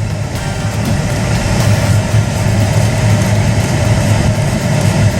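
Car heater blower fan running at full speed, air rushing steadily through the open cabin-filter slot over a constant low hum.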